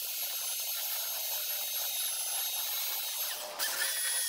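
Handheld power sander running with a steady high whine, sanding a black stain off marine-grade plywood. It briefly dips about three and a half seconds in, then runs on.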